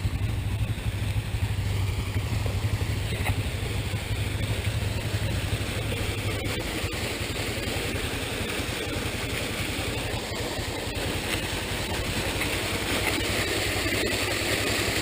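ATV engine running at low speed with a steady low hum that eases off about four seconds in. A rushing hiss grows near the end.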